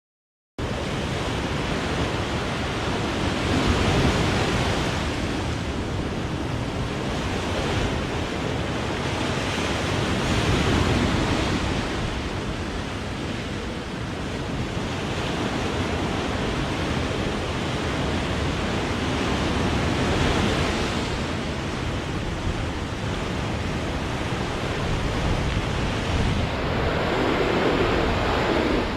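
Sea waves breaking on the shore: a continuous wash of surf that starts about half a second in and swells and ebbs as each wave comes in, roughly every five to six seconds.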